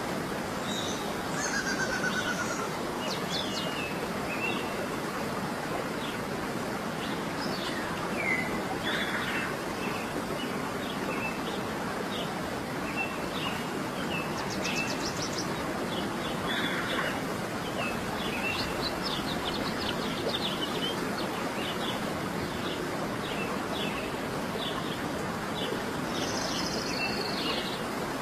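Many birds chirping and calling in short, quick notes over a steady rush of running water.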